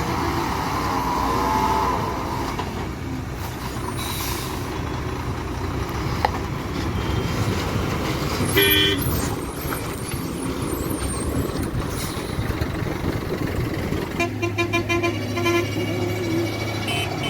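Heavy loaded trucks' diesel engines running, with a wavering tone in the first couple of seconds. A short horn toot comes about nine seconds in, and a rapid pulsing beep-like horn pattern about fourteen seconds in.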